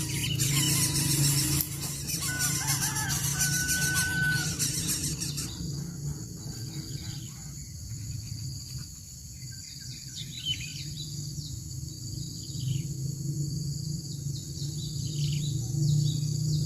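Birds calling outdoors: short chirps and a brief held whistle about three seconds in, over a continuous low drone and a steady high insect-like hiss.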